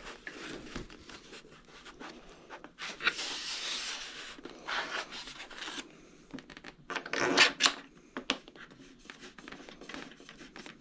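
Rubbing and scratching of hands working on a foam model airplane while long screws are twisted in by hand, with a few louder scraping bursts, the longest about three seconds in and another about seven seconds in.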